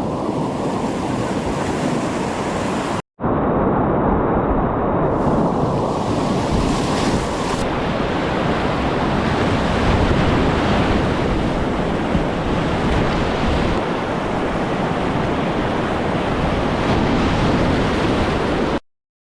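Rushing river whitewater mixed with wind buffeting the microphone: a loud, steady rumbling hiss that breaks off for a moment about three seconds in and stops just before the end.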